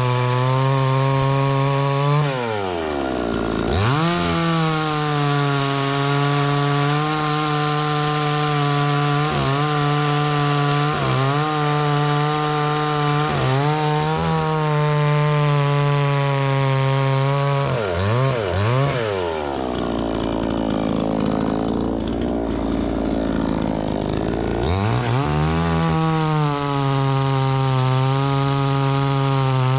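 Two-stroke chainsaw running at high revs while cutting wood. Its engine pitch dips sharply and recovers about three seconds in, then bogs down heavily under load from about 20 to 25 seconds before revving back up.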